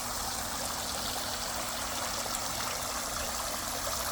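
Water from a swimming pool's waterfall feature pouring steadily into the pool, a constant even splashing.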